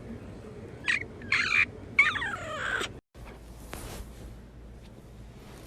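A cat meowing three times, the last a longer call that falls in pitch. About three seconds in, the audio cuts to a faint steady hum.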